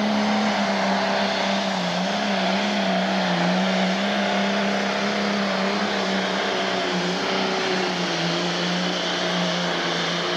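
Pro stock pulling tractor's turbocharged diesel engine held at full throttle under heavy load during a pull, a loud steady note that sags slightly in pitch now and then as it drags the sled.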